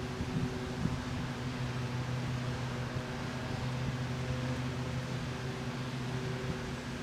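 Microwave oven running: a steady electrical hum and fan whir, with a few small clicks about a second in.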